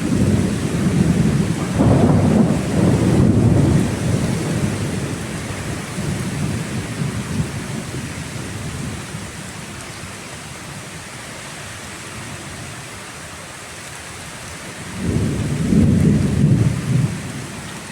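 Thunder rumbling over steady rain: a long roll of thunder at the start that dies away after about four seconds, then a second rumble near the end.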